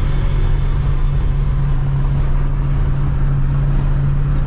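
Steady low rumble of a car driving, with a constant low drone and no change in pitch.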